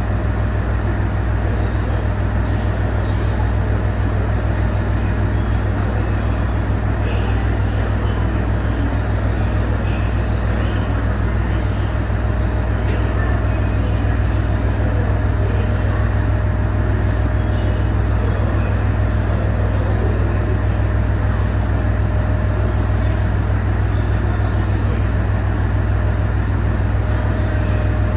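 HB-E210 series hybrid diesel train running steadily, a continuous heavy low rumble with a steady whine above it.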